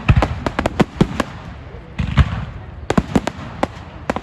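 Fireworks going off in quick, irregular succession: a rapid string of sharp cracks and bangs, with a heavier rumbling burst about halfway through.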